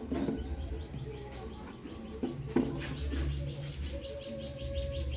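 A bird's rapid trilling chatter: a fast run of short high notes, about eight a second, starting about a second in and running on as a steadier trill. A few sharp knocks sound over it.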